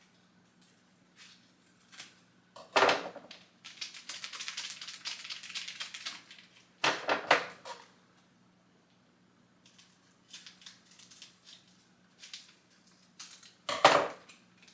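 Kitchen utensils being handled on a counter: a few sharp knocks and about two seconds of fine clattering rattle, like measuring spoons being sorted.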